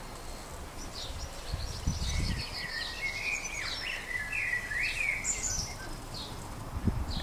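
Garden birds singing, with a dense run of quick high chirps and warbling phrases in the middle, over a low rumble.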